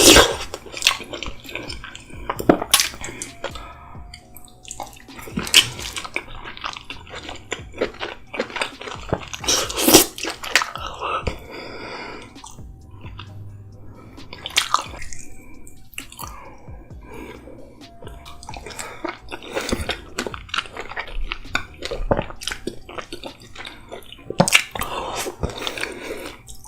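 Close-miked wet, sloppy sounds of food being dipped in and dripping with thick Alfredo sauce, with irregular sharp clicks and smacks.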